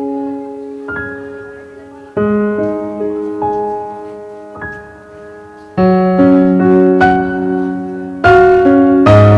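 Background piano music: chords struck every second or two and left to ring and fade, louder toward the end.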